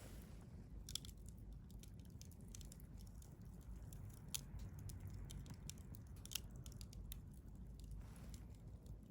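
Wood campfire burning: scattered sharp crackles and pops over a faint low rumble of the flames. The loudest pops come about a second in, a little past the middle, and about two-thirds through.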